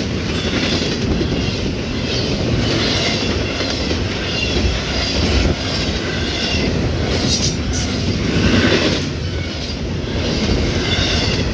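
CSX double-stack intermodal freight train rolling past at close range: a steady loud rumble and clatter of steel wheels on the rails. High wheel squeal comes and goes, with a brief sharper screech about seven seconds in.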